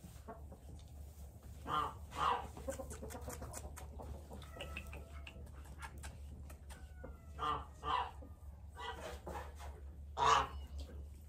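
Harsh bird calls: two pairs of loud calls, each pair about half a second apart, then a single call near the end, with softer calls in between.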